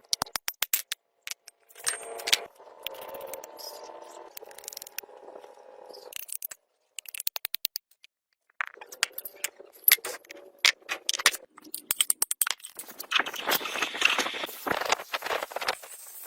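Metal parts and tools clinking, rattling and scraping in a run of sharp clicks, with a pause of about two seconds just past the middle.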